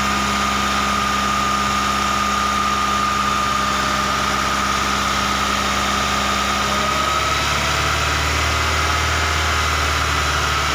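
SsangYong car engine idling steadily with a thin, steady high whine over it, running during an intake-fed catalytic converter cleaning. About seven seconds in, the low engine note shifts slightly.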